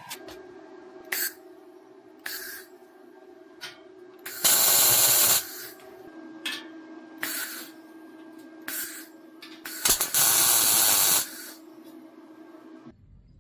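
Repeated short hissing bursts over a steady low machine hum, two of them louder and lasting about a second each.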